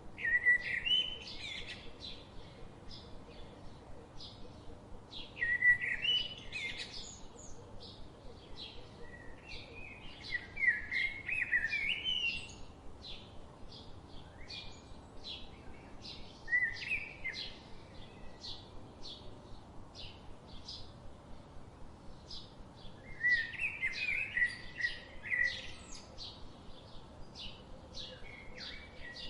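Songbirds singing. One bird repeats a short warbling phrase every few seconds, over a steady series of short high ticks about twice a second.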